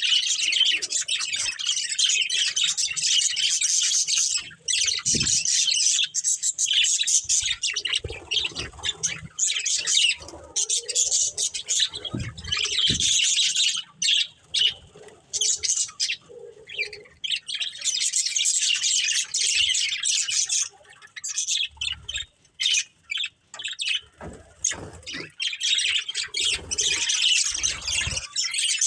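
Pet budgerigars chirping rapidly and almost without a break, in long spells of high chatter broken by short pauses.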